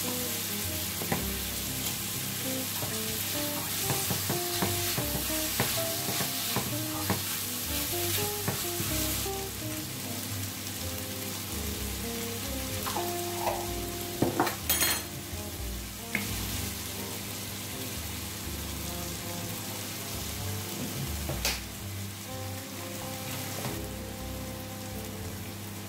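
Pak choy, onion and bacon sizzling steadily in a frying pan, with a few sharp knocks of stirring against the pan; the loudest knocks come about 14 to 15 seconds in.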